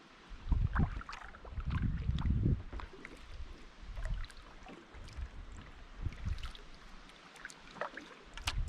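Kayak paddle strokes: the blades dipping into the lake and water splashing and dripping off them. A louder low rumble comes in the first two and a half seconds.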